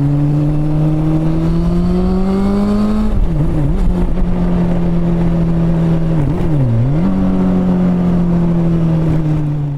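Honda CB400 Super Four inline-four engine running under way, its pitch rising steadily for about three seconds. The revs then dip sharply and come straight back up twice, about three and a half and six and a half seconds in, before holding steady near the end.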